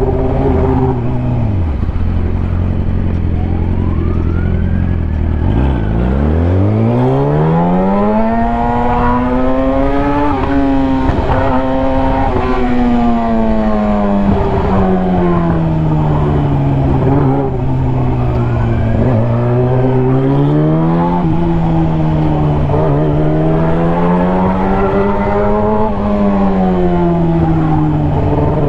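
Yamaha sportbike engine under way. It drops to a low, steady note about a second in, climbs sharply a few seconds later, then rises and falls again and again with the throttle.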